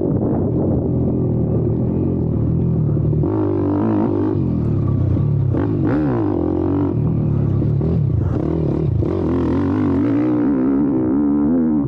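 YCF Bigy 190 Daytona pit bike's single-cylinder four-stroke engine under way, revving up and dropping back repeatedly as the throttle is worked.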